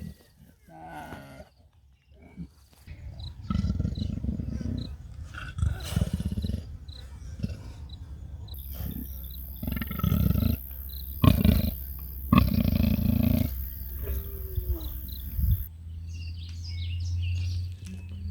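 Leopard calling: a series of deep calls in bursts about a second long, several in a row.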